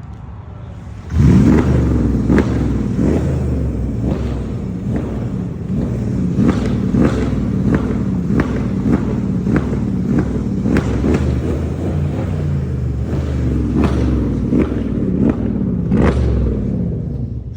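Mercedes-Benz CLS 550's V8 revved hard again and again, about two blips a second. It starts suddenly about a second in, and each rev falls away with a sharp crack. It eases off near the end.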